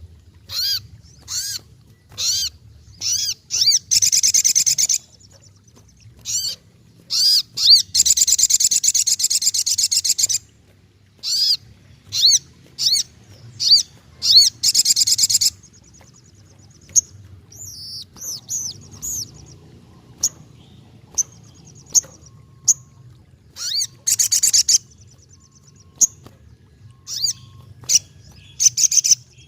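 Racket-tailed treepie (sogokontong) in full song: a series of short, high, sweeping call notes broken by several long, rapid chattering runs a few seconds each. A faint low hum lies underneath.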